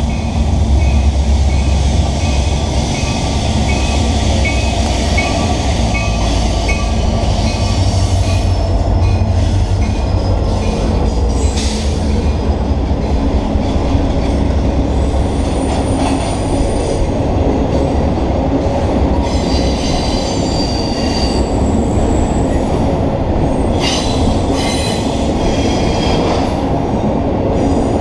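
Diesel freight locomotives, an EMD SD70M and a GE C40-9W, pass with a deep engine rumble that eases about ten seconds in. The double-stack container cars follow with a steady rolling rumble and clatter of wheels on rail, and high wheel squeal rises several times.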